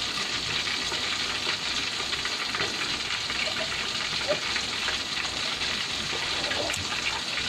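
Steady sizzling of food frying in pans on a gas stove: chicken frying under a lid, and sautéed bitter gourd cooking over the burner.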